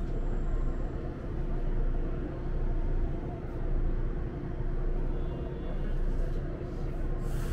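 Electric train heard from inside its carriage: a steady low rumble with a constant hum, and a brief hiss near the end.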